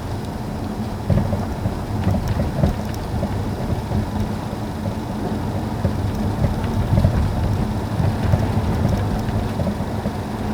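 Mercedes W212 E-Class driving with a steady road-noise rumble and irregular knocks and rattles from the suspension: the sign of a defective shock absorber.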